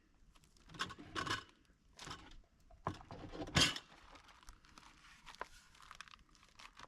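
Plastic wrap around a raw chicken breast crinkling and rustling in several short bursts, the loudest about three and a half seconds in, followed by a few light clicks.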